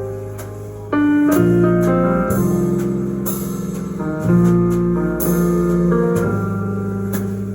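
Instrumental music with sustained piano or keyboard chords and guitar, played back through Infinity Reference RS2000.1 passive bookshelf speakers for a sound test. The chords change about once a second, and the music comes in louder about a second in.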